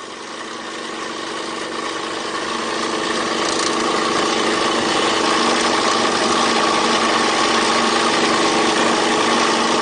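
Engine running steadily, growing louder over the first five seconds or so and then holding at an even level.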